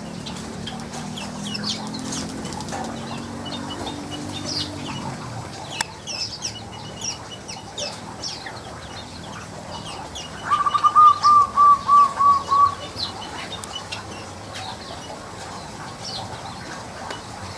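Weaverbirds chirping in an aviary: many short, high chirps scattered throughout. About ten seconds in, a louder call of about seven quick repeated notes lasts about two seconds. A low drone underneath fades out about five seconds in.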